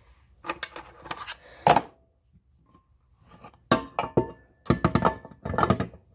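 Kitchen utensils, bowls and mixer parts being handled, clattering and knocking in three short flurries with pauses between.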